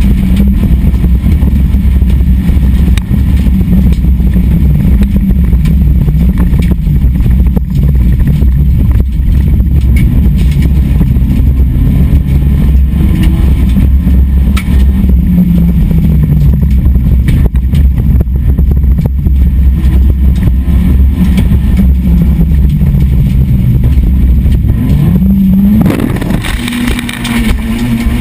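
SEAT Ibiza rally car's engine heard from inside the cabin, revving up and falling back again and again through the gears over a heavy low rumble. About 26 seconds in the engine note breaks into a burst of clatter and scraping as the car crashes, leaving a steady held engine tone near the end.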